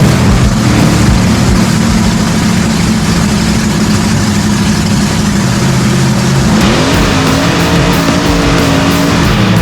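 Mega truck's big engine running hard at race speed, its pitch rising about two-thirds of the way through and then holding high.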